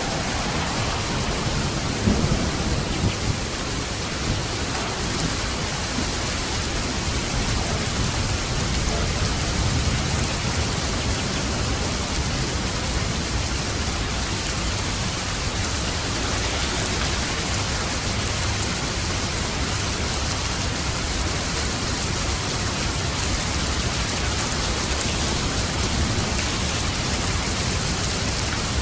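Steady rain falling, with low rumbles of thunder underneath and a brief louder swell about two seconds in.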